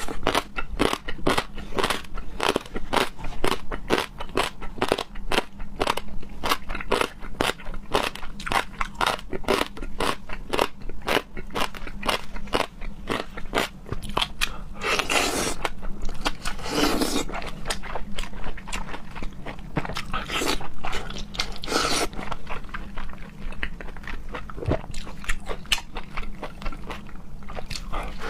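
Close-miked chewing and crunching on raw seafood: a dense run of crisp crunches, several each second, with a few longer sounds about halfway through.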